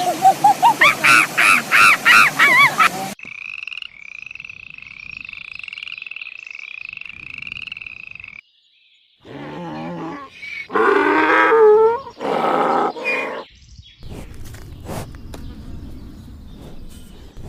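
A string of different animal calls, cut one after another: loud pulsed calls rising in pitch, then a long run of quick repeated chirps, then several loud calls that bend up and down in pitch, and finally a quieter noisy stretch with scattered clicks.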